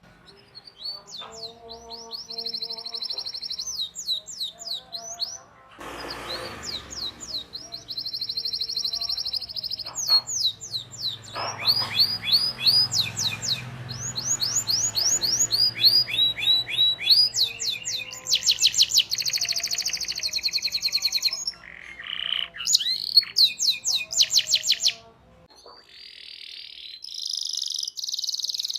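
Domestic canary singing a long, continuous song of fast rolls: runs of rapidly repeated high chirping notes that change pattern every second or two. The song breaks off briefly near the end, then resumes.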